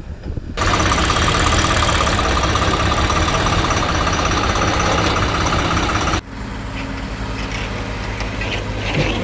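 Heavy diesel machinery engine running loud and steady, then cutting off abruptly about six seconds in to a quieter, steady engine running at idle.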